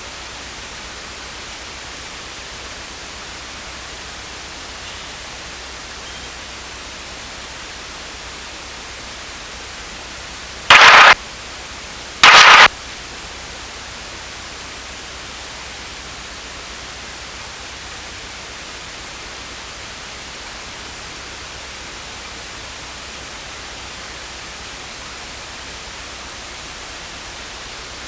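Steady static hiss of a cockpit intercom audio feed. It is broken twice, about 11 and 12.5 seconds in, by a short loud burst lasting about half a second.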